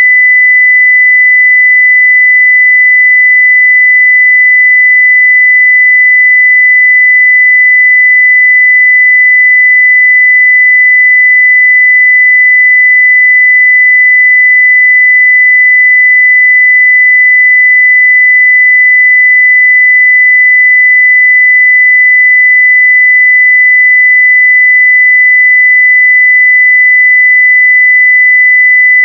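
Steady 2 kHz sine-wave test tone at full level, one pure unbroken pitch.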